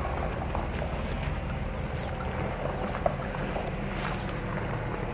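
Steady low rumble of a vehicle in motion, heard from on board, with a few faint clicks.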